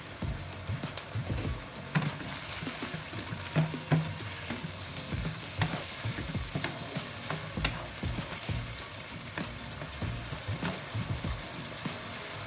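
Cucumber slices and chopped garlic sizzling in a little oil and water in a nonstick wok, while a wooden spatula stirs them. From about two seconds in, the spatula clicks against the pan about once a second.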